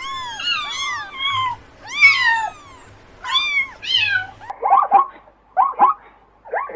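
A cat meowing repeatedly, about four high meows that rise and fall in pitch. Just past halfway it gives way to a different, quicker series of short calls.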